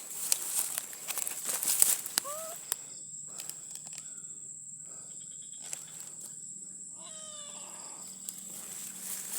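A small animal cries out twice: a short rising-and-falling call about two seconds in, then a longer falling call about seven seconds in. Noisy rustling with a few clicks fills the first two seconds.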